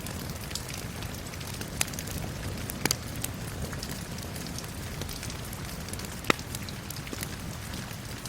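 Steady rain with a wood fire crackling over it in sharp, irregular pops, the loudest pop about six seconds in.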